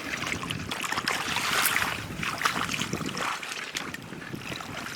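Water sloshing and splashing, with small irregular splashes and clicks.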